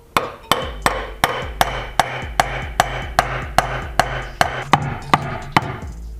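A hammer striking repeatedly in an even rhythm, about two to three blows a second, over a steady low hum.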